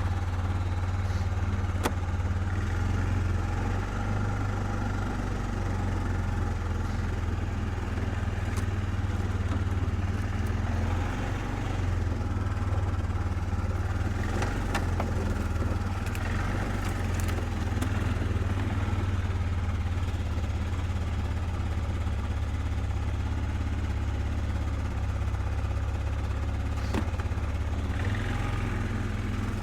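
A small engine running steadily at idle, a constant low hum, with a few sharp clicks over it.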